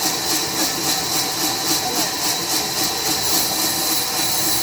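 Sawmill saw cutting through a log: a steady hissing rasp with a quick, even pulse.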